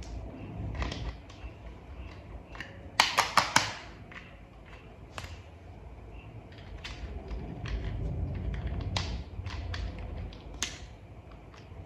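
Small plastic toy parts being handled and clicked together: scattered light clicks and taps, with a quick run of four sharp clicks about three seconds in.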